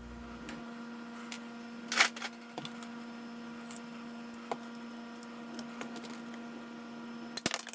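A steady low hum with a handful of light clicks and taps, the sharpest about two seconds in and a short cluster near the end, from handling tools and PEX pipe while measuring.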